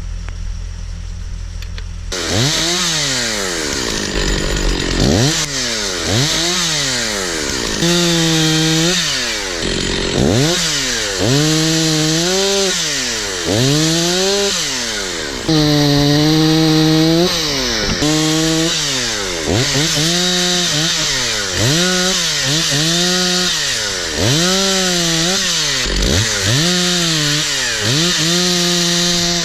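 Stihl 046 two-stroke chainsaw idling, then from about two seconds in revved and cutting wood. The engine pitch repeatedly climbs, holds at full throttle and drops back every second or two, with a couple of longer held cuts.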